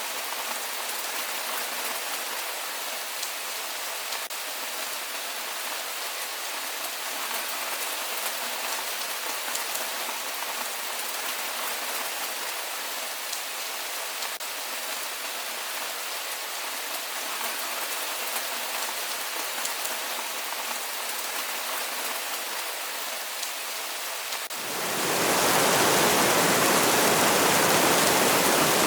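Steady rain with light pattering of drops on a surface. About twenty-five seconds in it changes suddenly to a louder, deeper, more even rush of heavy rain.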